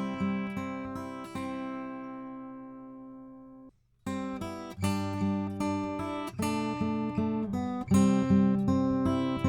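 Acoustic guitar strumming chords, played back through a Warm Audio EQP-WA tube equalizer with its low-frequency boost engaged. A chord is left ringing and fades, the sound cuts out briefly just under four seconds in, and then rhythmic strumming starts again.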